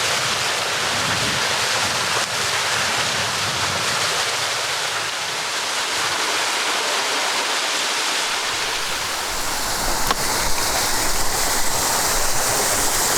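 Rushing water of a stream, a steady hiss that grows brighter and a little louder about ten seconds in.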